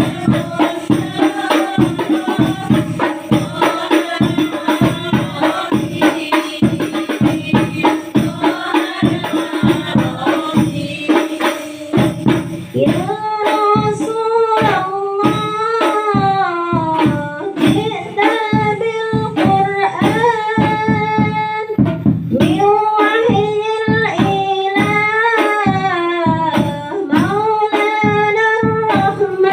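Frame drums of the rebana type beat a fast, steady rhythm under singing in Islamic devotional style. About twelve seconds in, a single voice takes up a wavering, ornamented melody over the drums.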